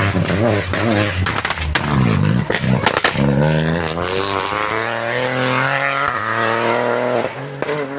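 Rally car engine revving hard through a tight turn, its pitch falling and rising several times as the driver lifts off and gets back on the throttle. A few sharp cracks come about two to three seconds in.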